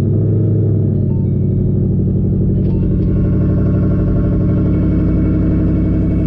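Car engine idling, a loud, steady low rumble heard from inside the cabin.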